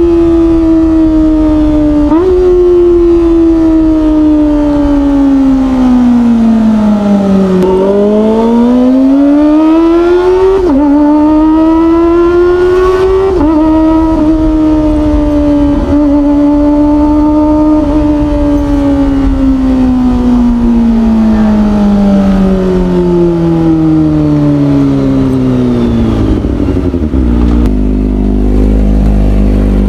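Kawasaki ZX25R's 250 cc inline-four with an Orion aftermarket exhaust, ridden at high revs: the engine note falls as it slows, climbs again with brief jumps in pitch at gear changes, holds a steady high-revving cruise, then winds down and settles to a low steady note near the end.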